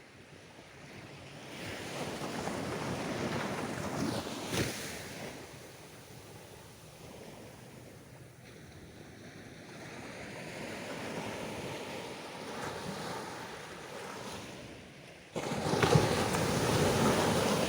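Sea surf breaking and washing up the beach in rolling swells, with a louder rush that starts abruptly near the end.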